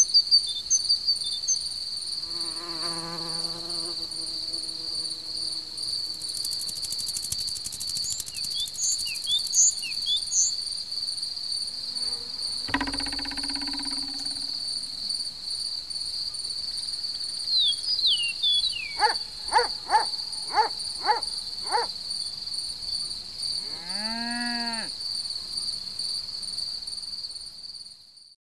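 Crickets trilling steadily in a high continuous chirr, with a few other short animal-like calls laid over it, including five quick calls in a row about two-thirds through and an arching call near the end. The sound fades out at the close.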